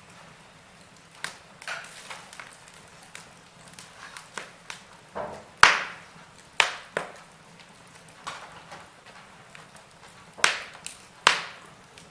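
Fire in a fireplace crackling, with irregular sharp pops and snaps over a faint steady hiss. The loudest pop comes about halfway through, and a few more follow near the end.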